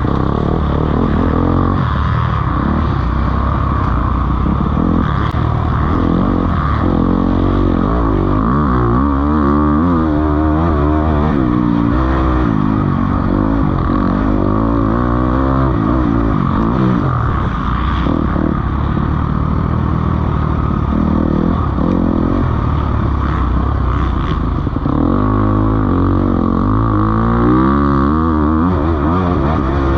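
Motocross bikes racing on the track, several engines at once revving up and falling back through the gears as they accelerate and brake for corners.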